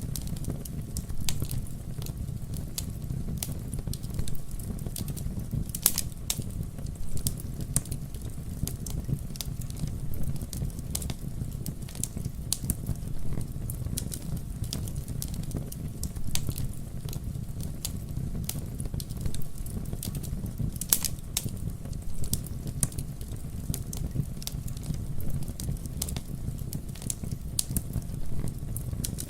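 Campfire burning: a steady low rumble of flames with frequent sharp crackles and pops from the burning wood, a few louder pops about six seconds in and past the twenty-second mark.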